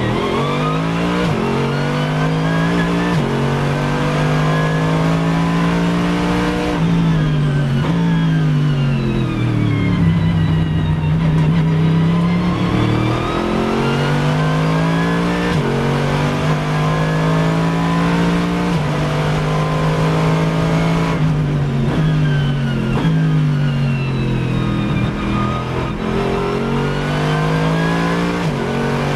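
Car engine at full throttle on a race track, revving up and shifting up several times, each shift a sudden drop in pitch; twice the revs fall away through downshifts as it brakes, then it accelerates through the gears again.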